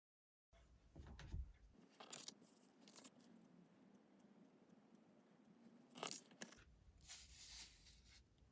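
Faint rustling and scraping of tarot cards being handled, with a few sharp taps, the loudest about a second in and about six seconds in.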